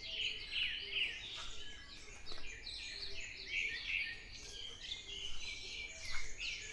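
Many birds singing and calling at once in a dawn chorus: short, high chirps and quick pitch sweeps overlapping from all sides, with no pause.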